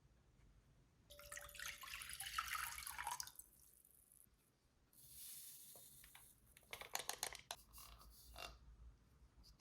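Water running briefly twice with dripping, and a few light clicks in between.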